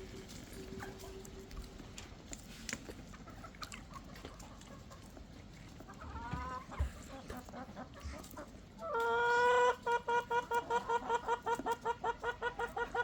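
A chicken calling: a short call, then a loud held note followed by a fast, even series of clucks at about four a second.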